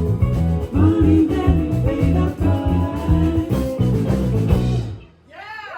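Live rock band playing the final bars of a song, with drums, bass, guitar and singing, ending abruptly about five seconds in. The crowd starts cheering right after the music stops.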